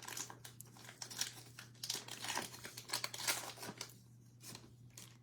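Cellophane wrapper of a trading card cello pack crinkling and tearing as it is opened, in irregular crackles that die down after about four seconds.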